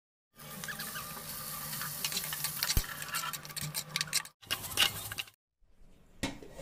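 Chicken pieces frying in oil in an aluminium kadai, sizzling and crackling as a metal spatula scrapes and clicks against the pan while stirring. The sound cuts off abruptly about four seconds in and again a second later, leaving a fainter stretch with a single click.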